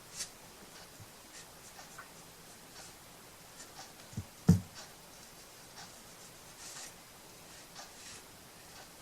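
Soft scratching strokes of a paintbrush working paint onto a small wooden piece, with a single knock of something set down on the table about halfway through.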